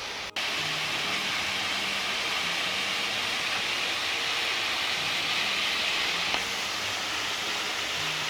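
Tall waterfall at Salmon Creek: falling water gives a steady, even rushing hiss. It breaks off for an instant about a third of a second in and resumes slightly louder.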